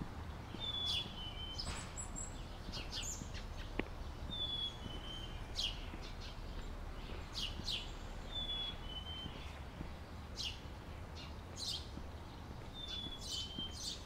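Songbirds calling. A short two-note whistle, high then a step lower, comes about every four seconds among sharp high chirps, over a low steady rumble.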